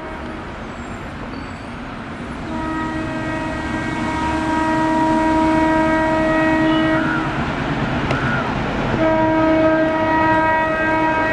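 Locomotive horn sounding two long blasts, the first from about two seconds in lasting some five seconds and the second starting near the end, over the rumble of an approaching train that grows louder.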